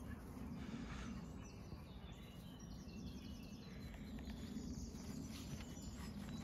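Birds singing in the background, with a run of quick high notes through the middle, over a steady low rumble of outdoor noise.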